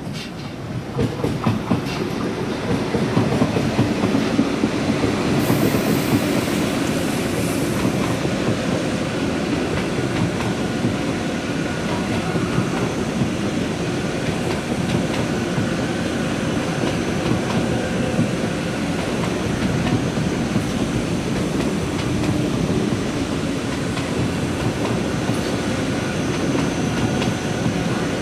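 ICE-T electric multiple unit running past close by, a steady rumble of wheels on rail with clattering over the rail joints and points. It builds up over the first few seconds as the train arrives, then holds.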